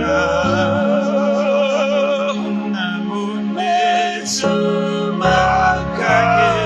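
A man singing a slow worship chorus with heavy vibrato over sustained keyboard and guitar accompaniment.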